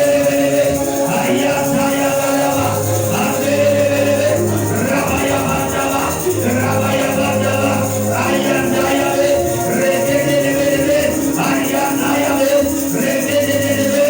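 Church keyboard music playing held, slowly changing chords over a steady bass line, with jingling hand percussion.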